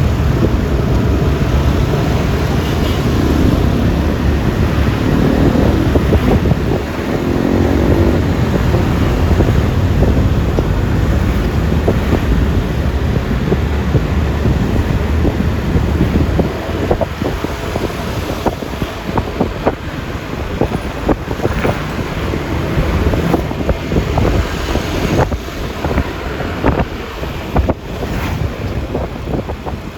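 Road noise from riding a Yamaha Lexi 155 scooter: wind rushing over the microphone over the rumble of the scooter's single-cylinder engine and tyres, with a passing vehicle's engine rising in pitch a few seconds in. The low rumble eases a little past halfway and the wind turns gustier.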